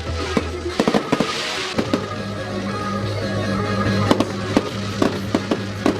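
Fireworks going off in an irregular series of sharp bangs and pops, over background music with a steady bass.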